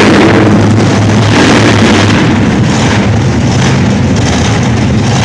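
Monster truck's 540-cubic-inch engine running loud, its pitch holding mostly steady with small surges.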